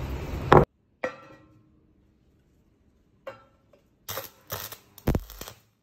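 A few short metallic knocks and clinks with brief ringing, as steel pieces are handled and set down: one about a second in, then a cluster of three or four near the end.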